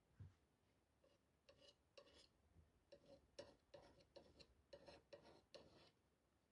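Faint scraping strokes, about two a second for several seconds, of a hand tool working paint onto a craft surface.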